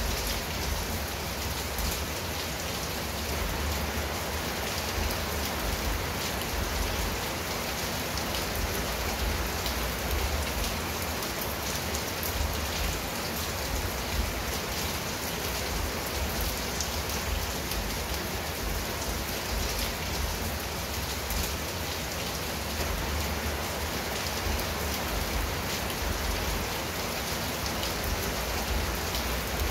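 Steady rain falling on a tiled roof and trees: an even hiss with many small drop hits, over a constant low rumble.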